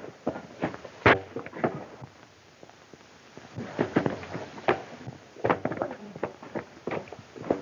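A run of irregular knocks and thumps, with a pause of about a second and a half near the middle.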